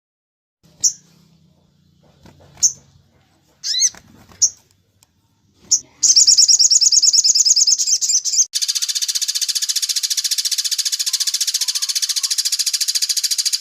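Birdsong: a few short, sharp high chirps, then a fast high trill from about six seconds in that changes about two seconds later into a harsher, rapid rattling trill.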